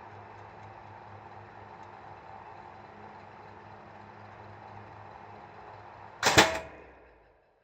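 A 1985 National FY-20EM-D ventilation fan running with a steady motor hum. About six seconds in it is switched off with one loud clack, and the sound dies away within about a second.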